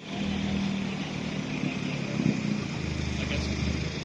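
A car engine running steadily, a low even drone without revs.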